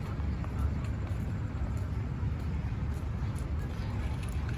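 Steady low outdoor rumble, with no single distinct event standing out.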